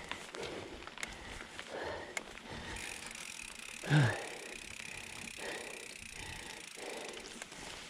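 Mountain bike ridden over a dirt trail: tyre noise with rattles and clicks from the bike. About four seconds in there is one short, loud sound that falls in pitch.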